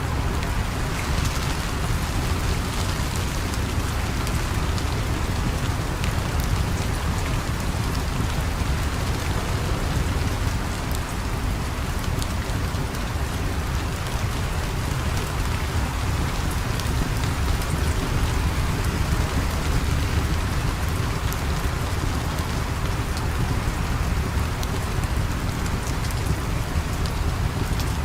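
Steady heavy rain falling, with scattered sharp ticks of drops and a deep steady rumble underneath.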